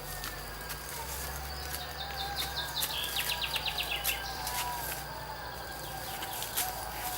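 Outdoor nature ambience with bird calls, including a quick run of sharp chirps about two seconds in, over a steady low hum.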